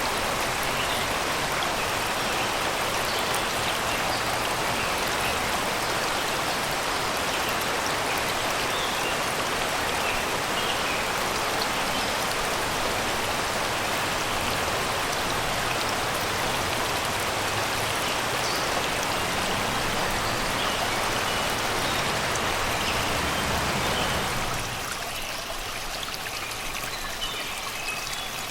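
Shallow river rushing and babbling over rocks and stones in a steady wash, with faint bird chirps scattered over it. About 24 seconds in the water sound drops abruptly to a softer, thinner flow.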